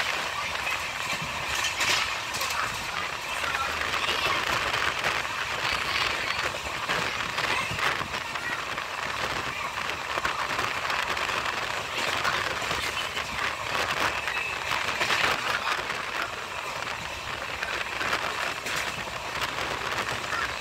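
Running noise of a moving train heard from on board: a steady noise of wheels on the rails, with scattered clicks and rattles.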